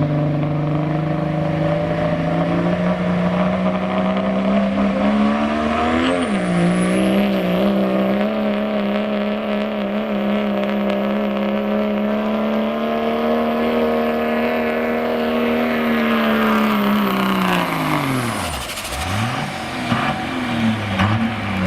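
Pickup truck engine at full throttle pulling the sled, revs climbing and then held high for about ten seconds with a high turbo whistle over it. Near the end the driver lifts off and the revs fall away sharply.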